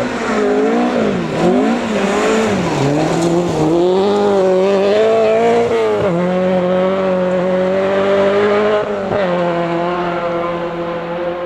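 Rally car's engine at full effort, revs rising and falling sharply several times in the first few seconds, then climbing and held high, with two sudden drops at gear changes about halfway and about three quarters of the way through, easing a little near the end.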